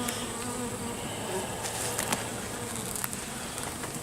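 Honey bees buzzing steadily in large numbers over an open hive box, with a few light clicks.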